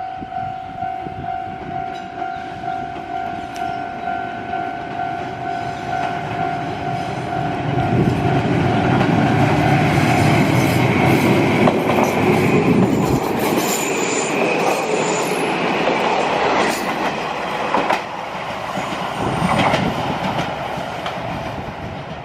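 A train passing close by, its wheels clicking over the rail joints as the sound swells, loudest in the middle, then fades away, with a brief high squeal from the wheels near its loudest. A steady pulsing warning tone rings through the first part and dies out as the train arrives.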